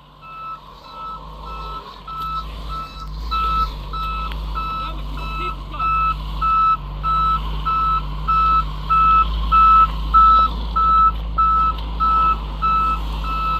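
Truck backup alarm beeping at an even pace, about three beeps every two seconds, growing louder, over a low steady engine rumble.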